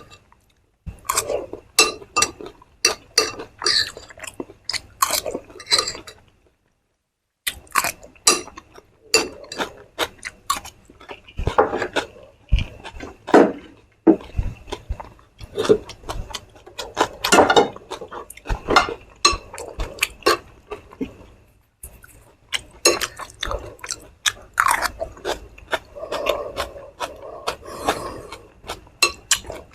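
Close-miked eating: a person crunching and chewing food in quick, irregular bites, with a few short silent breaks.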